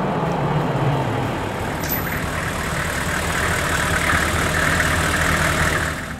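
Recorded SUV engine running, a little louder about four seconds in, and cutting off suddenly near the end.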